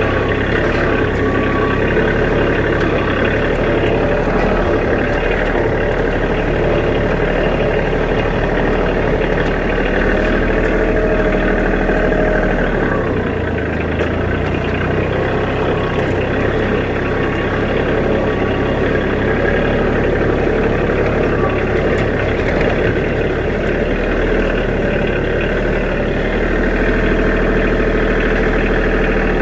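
Kioti DK35 SE compact tractor's diesel engine running steadily, its note shifting lower for a moment about halfway through.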